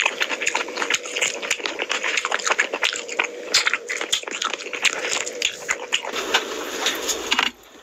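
Close-miked, wet chewing and lip-smacking as mouthfuls of rice and curry are eaten by hand, in a dense run of quick clicks and smacks. It cuts off abruptly near the end.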